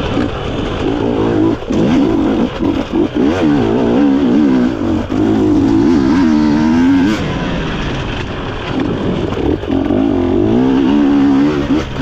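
GASGAS EC250 two-stroke enduro motorcycle engine revving hard under heavy throttle. Its pitch keeps rising and falling, with brief chops of the throttle.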